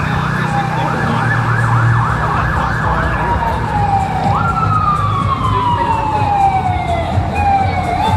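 Emergency vehicle siren, first in fast repeated yelp cycles, then switching about three seconds in to long sweeps that jump up and slide slowly down in pitch. Under it runs a steady low traffic rumble.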